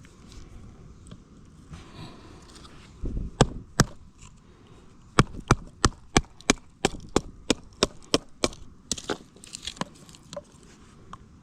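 Batoning firewood into kindling: a wooden baton knocks on the spine of a knife driven through a split of wood. A couple of heavy knocks come first, then a quick, even run of about fifteen sharp knocks, roughly four or five a second, and then the wood splits and splinters.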